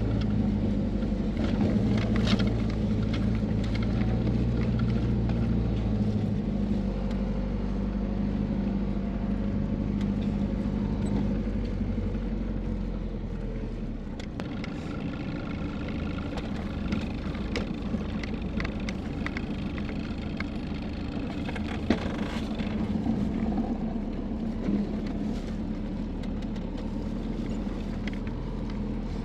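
Truck engine running with a steady low hum, its note changing a few times, about six, eleven and fourteen seconds in, with a few light clicks and a small knock over it.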